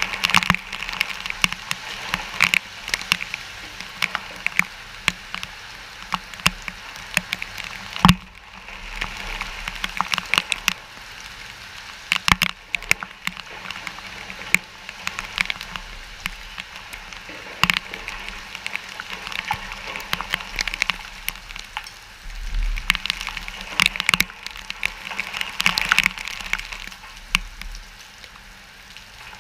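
Rain from a hurricane's outer rain band falling steadily, with many sharp drop hits crackling near the microphone and wind gusts rumbling on it now and then.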